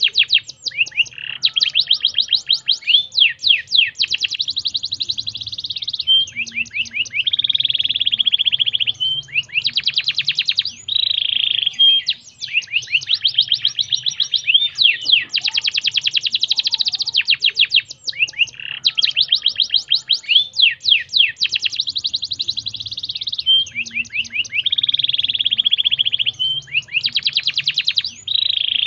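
Canary singing a long unbroken song of rapid trills: runs of fast repeated sweeping notes alternating with buzzy rolls, high-pitched.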